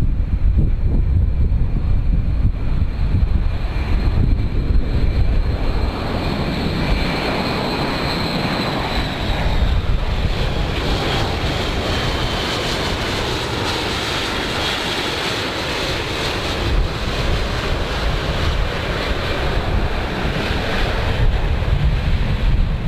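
Jet airplane passing by, its high engine whine slowly falling in pitch as the rushing noise swells and then eases off near the end. Wind rumbles on the microphone throughout.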